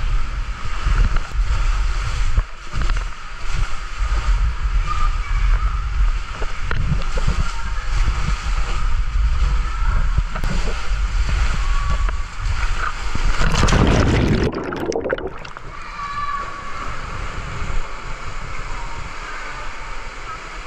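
Water sloshing and splashing over a steady low rumble, with a louder rush of water about thirteen seconds in that cuts off abruptly.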